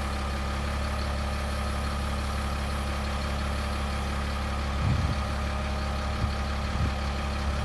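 Freightliner FL70 truck engine idling steadily, with a few brief low thumps about five seconds in and shortly after.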